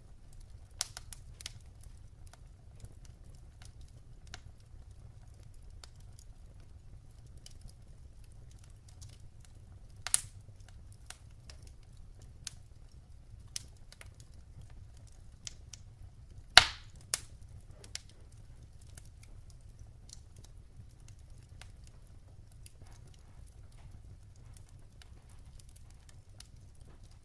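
Firewood burning in a fireplace, crackling: scattered sharp snaps and pops over a faint low rumble, with two louder pops about ten seconds in and a little past the middle.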